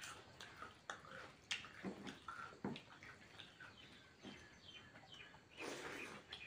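Faint eating sounds: chewing rice and chicken curry, with small wet clicks and smacks of the mouth, and a longer slurp or rustle near the end.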